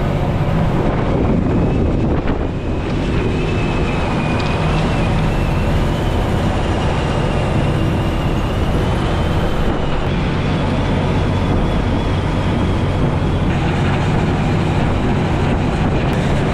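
Prawn trawler's diesel engine running steadily, a continuous rumble with a wavering high whine above it.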